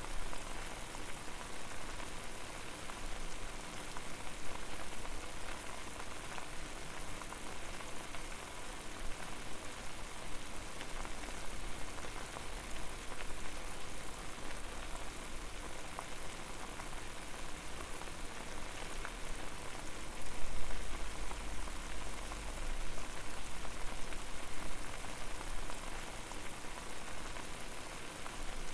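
Water boiling over a fire, a steady dense bubbling and popping. A low rumble swells briefly about twenty seconds in.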